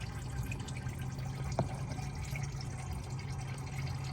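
Coolant steadily trickling and splashing out of the car's drained cooling system, over a steady low hum, with one light click about one and a half seconds in.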